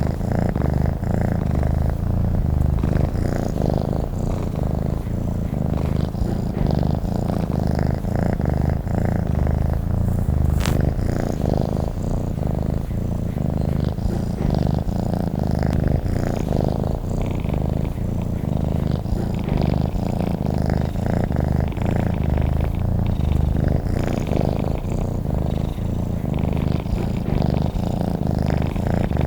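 Domestic cat purring steadily and close up, a continuous low, pulsing rumble. A single faint click about ten seconds in.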